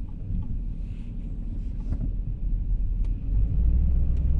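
Low rumble of an RV's engine and road noise heard from inside the cab, growing louder as the vehicle picks up speed, with a couple of faint ticks.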